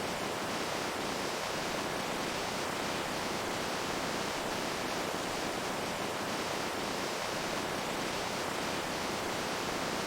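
Running water with a steady, unbroken rush and faint small splashes throughout.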